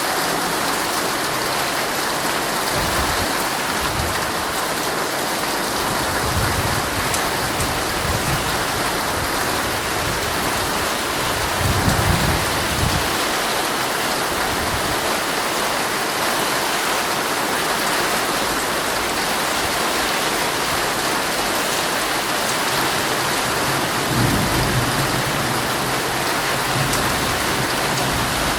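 Heavy rain drumming steadily on a tent. A few brief low rumbles come under it, the strongest about twelve seconds in and another near the end.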